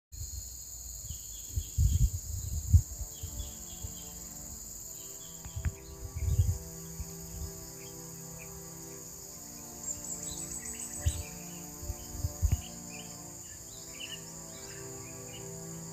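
Crickets and other insects droning steadily, with scattered bird chirps over soft background music. A few brief low thumps come about 2, 6 and 12 seconds in.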